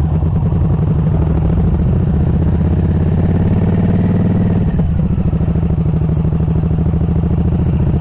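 Harley-Davidson Nightster's V-twin engine pulling away from a stop, its pitch slowly rising, then dropping suddenly a little past halfway as the rider shifts up, and running on steadily.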